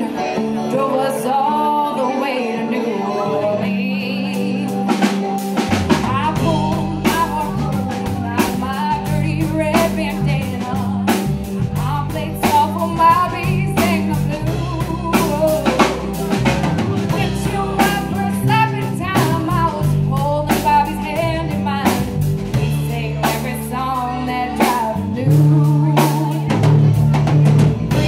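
Live band playing a rock song with a woman singing the lead. About five seconds in, the bass and drum kit come in under the voice and carry on steadily.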